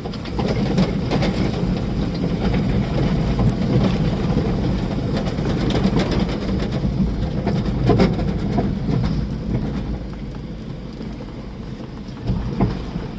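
Wind buffeting the microphone as a steady low rumble, with scattered knocks and clatters through it.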